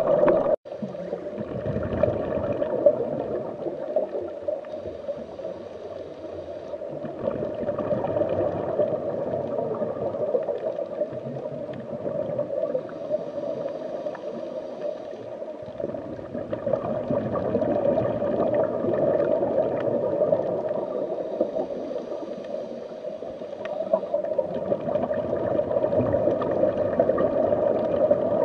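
Continuous gurgling, bubbling water sound of an underwater ambience, swelling and ebbing slowly; it breaks off for an instant about half a second in.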